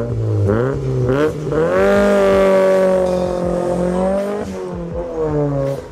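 Toyota 3S-GTE turbocharged 2.0-litre inline-four revving hard. The engine note climbs over the first two seconds, holds at high revs for about two more, then drops away.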